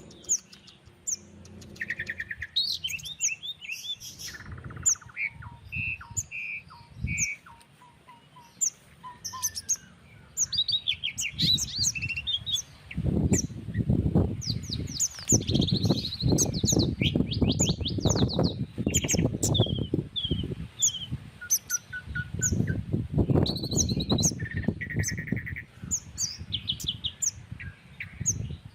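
Several birds calling and singing over one another in short chirps, whistled notes and fast trills. From about halfway through, gusts of wind buffet the microphone with an irregular low rumble louder than the birds.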